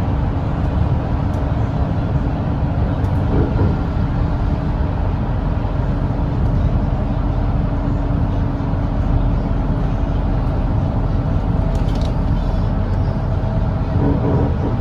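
Volvo B8RLE double-decker bus's eight-litre six-cylinder diesel engine running steadily at expressway cruising speed, with a deep rumble and road noise. A steady hum is in the first half, and a higher steady whine comes in about two-thirds of the way through.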